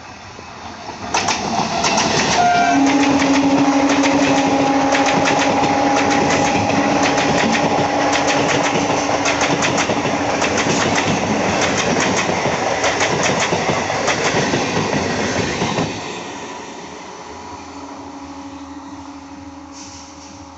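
Indian Railways EMU local train passing at speed, its wheels clacking rapidly over rail joints, with a long steady horn blast through the first half. The noise drops off sharply about 16 seconds in, leaving a fainter hum.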